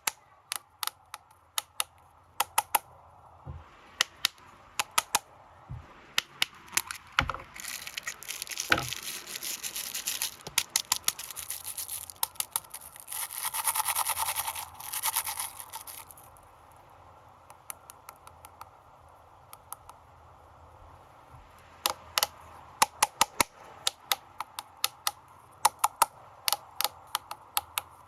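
Plastic snack wrappers being handled and unwrapped: sharp crinkles and crackles, with a stretch of dense rustling and tearing in the middle, a quieter pause, then crackling again near the end.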